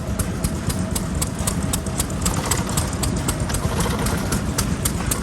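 Vintage single-cylinder stationary engines running, a steady low chugging rumble with rapid sharp ticks and clicks several times a second.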